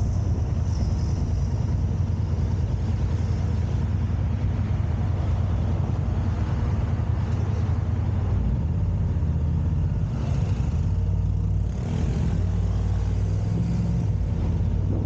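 A car driving: a steady low rumble of engine and road noise, with a hiss of air over it.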